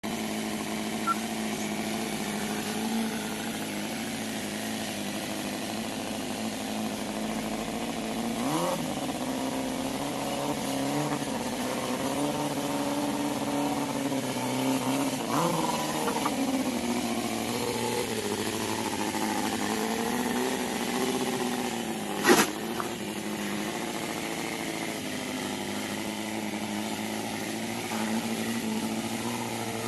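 Cison L4 inline-four gasoline model engine running in an RC truck, humming steadily, with its pitch rising as it is revved about 8 seconds in and again about 15 seconds in. A single sharp crack stands out about 22 seconds in.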